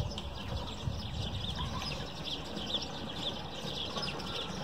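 Small birds chirping in many short, high, quick calls, over a steady low rumble.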